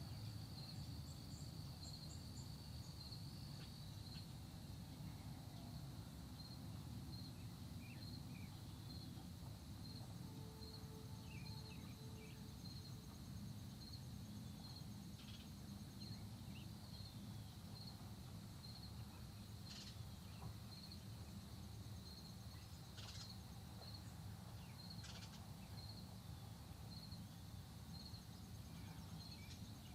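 Faint early-morning countryside ambience. Insects chirp in a steady high pulse about once a second over a fainter high trill, a few short bird chirps come here and there, and a low rumble runs underneath.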